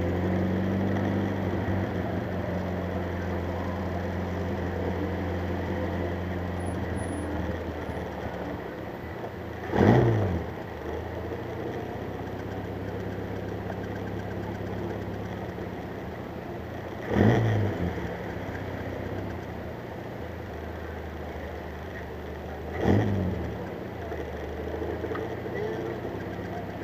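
Triumph TR3B's four-cylinder engine running at low speed through a Monza exhaust, revved briefly three times, each rev rising and falling sharply in pitch, about 10, 17 and 23 seconds in.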